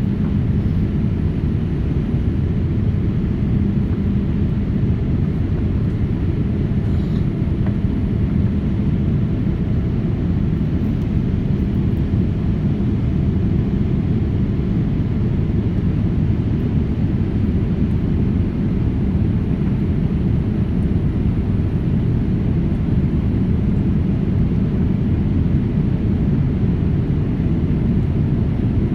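Steady low rumble heard inside a jet airliner's passenger cabin, from its engines, with no change in pitch or level.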